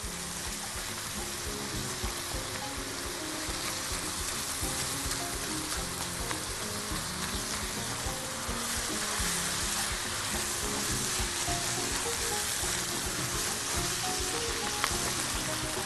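Crumbled sausage and onion sizzling steadily in a frying pan as it is stirred with a spatula. Soft background music plays underneath.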